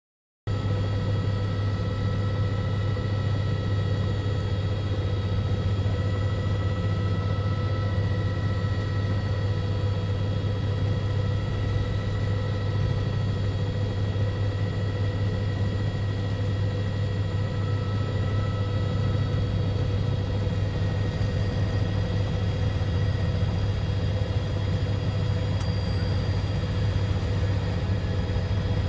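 Steady low engine drone with several constant whining tones above it, starting about half a second in and not changing.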